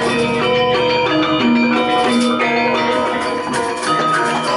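Balinese gamelan playing: many struck, ringing pitched tones overlapping in a dense, continuous pattern.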